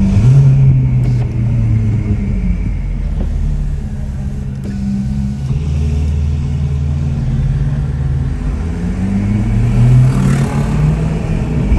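Ferrari 488 Pista's twin-turbo V8 through a Ryft aftermarket exhaust, accelerating. The revs climb right at the start, settle lower through the middle, and climb again to the loudest point about ten seconds in.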